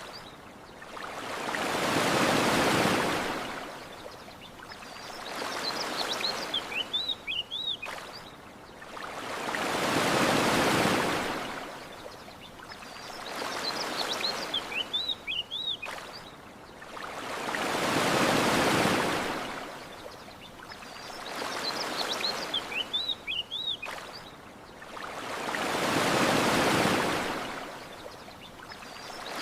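Ocean waves washing onto a shore, a bigger swell about every eight seconds with a smaller one between. Short bursts of bird chirps fall in the lulls between the big swells.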